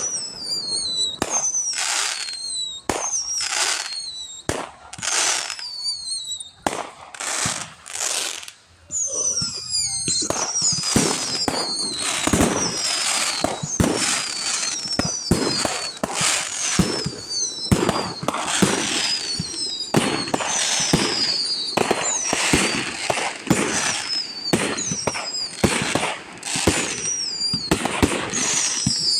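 Aerial fireworks bursting one after another, with falling whistles high above the bangs. From about ten seconds in, the bursts come almost without a break.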